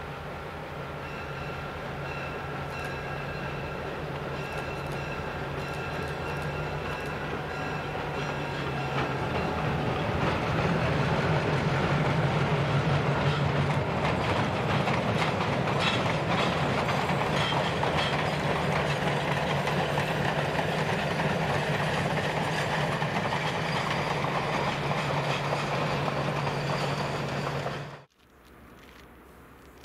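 Diesel locomotive pulling a passenger train past, its engine running with a steady low hum that grows louder over the first ten seconds as the train nears, along with the clatter of wheels on the rails. The sound cuts off suddenly near the end.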